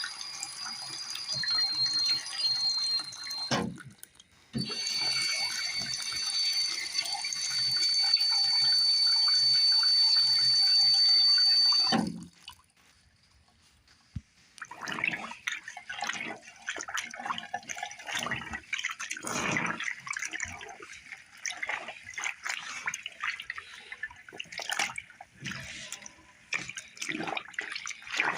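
Water running from a sink tap with a steady high whistle, cutting out briefly about four seconds in and again for about two seconds near the middle. After that comes irregular splashing and sloshing as a soaped sheet is worked by hand in the water.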